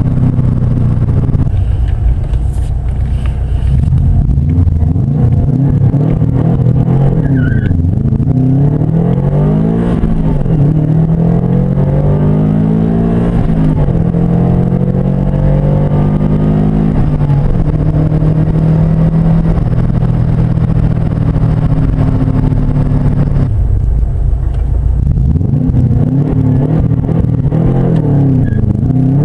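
Subaru Forester Turbo S's turbocharged 2.0-litre flat-four engine pulling hard through the gears, its pitch climbing and falling back at each shift. It holds a steady note for a while, drops away about 23 seconds in, then climbs again near the end.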